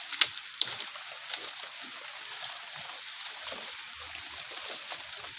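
Steady rain pattering, with two sharp clicks in the first second.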